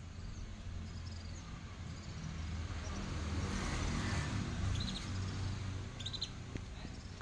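Songbirds giving short, quick chirps twice in the second half, over a passing vehicle's low rumble that swells and fades in the middle.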